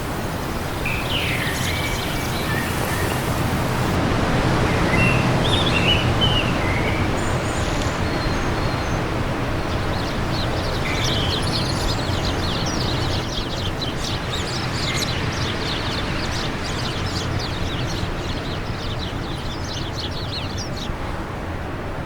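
Wind blowing steadily, swelling a few seconds in, with birds singing over it: a few short chirps in the first seconds, then a long run of rapid high twittering from about ten seconds in until shortly before the end.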